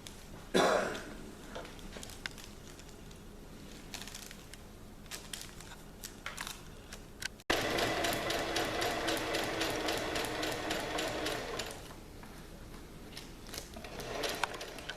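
Electric sewing machine stitching through layered fabric in a steady run of about four seconds from halfway through, then easing off and starting again near the end. Before it, a few faint clicks and one short louder sound about half a second in.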